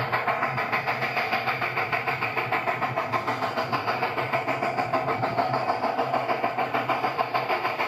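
A machine running steadily with a fast, even pulsing beat, like an engine or motor.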